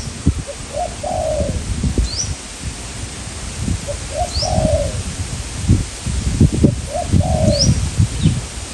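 Spotted doves cooing, three phrases about three seconds apart, each two short notes and a longer falling coo. A smaller bird gives short rising chirps, and strong wind buffets the microphone in gusts.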